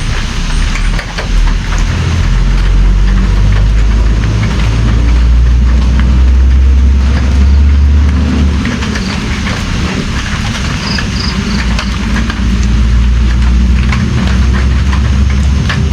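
Heavy rain: a dense steady patter of many sharp drop hits over a deep low rumble that swells and eases.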